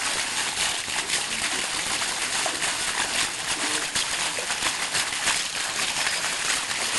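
Steady splashing, running water, an even hiss flecked with small splashes throughout.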